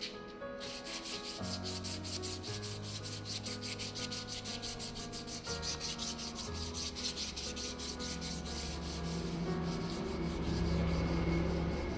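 Emery paper rubbed by hand over the painted steel of a fridge door in rapid, even back-and-forth strokes, sanding down the old paint and rust to roughen the surface for repainting. The strokes start about half a second in.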